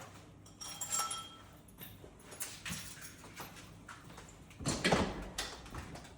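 Household objects being handled: a run of small knocks and clicks, a short ringing clink about a second in, and a louder knock about five seconds in.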